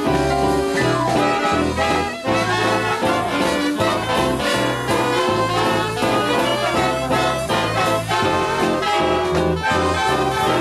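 Swing big band playing an instrumental passage, with the brass section carrying the tune over a steady bass beat.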